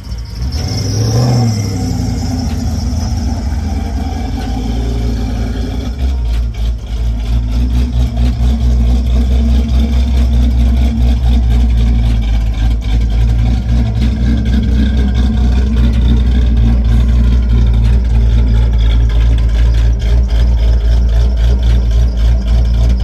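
LS1 V8 engine in a boxy Chevrolet Caprice running, with a brief rev about a second in, then a louder, steady low rumble from about six seconds on as the car sits close by. It is running well, with its main vacuum line reconnected; it sounds good.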